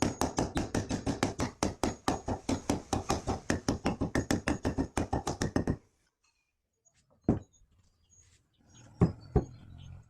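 A fast, even run of sharp knocks on wood, about six a second, for nearly six seconds, then three separate knocks after a pause.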